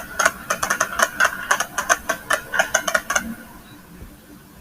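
Rapid, irregular crackling pops of fireworks, several a second, that stop about three seconds in.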